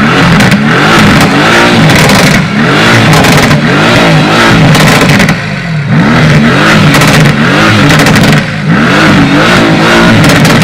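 Mercedes-AMG V8 supercar engines revved hard again and again, the pitch climbing and dropping in quick repeated blips, very loud, with short lulls about every three seconds.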